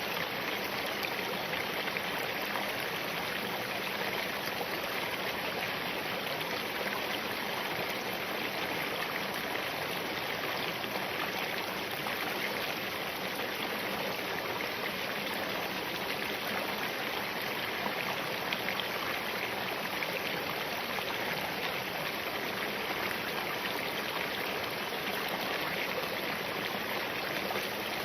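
Small spring-fed mountain stream running over and between rocks, a steady, even rush of flowing water.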